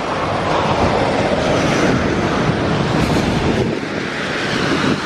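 A vehicle passing on the street: a broad rushing noise that builds over the first few seconds and eases off near the end.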